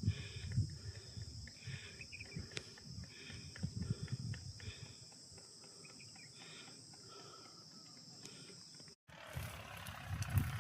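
Insects droning steadily at a high pitch, with short chirps repeating every half second or so and low rumbling thumps underneath. The drone cuts off about nine seconds in.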